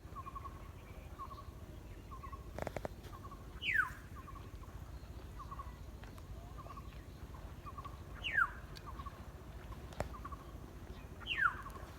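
Birds calling: a short chirp repeating about twice a second, and three loud whistles that slide steeply down in pitch, the loudest sounds. A couple of sharp clicks come in between.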